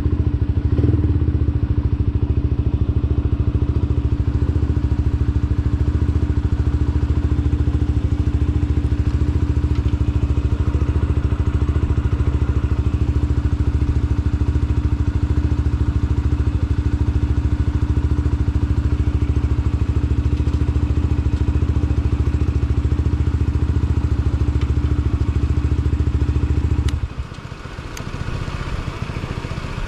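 Lexmoto Assault 125's 125 cc single-cylinder engine running steadily through a Black Widow aftermarket exhaust, holding an even note. Near the end the sound drops suddenly and stays quieter.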